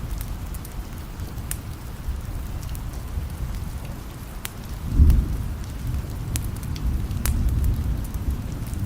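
Steady rain with scattered sharp crackles and pops from a wood fire. A low rumble of distant thunder runs underneath and swells briefly about five seconds in.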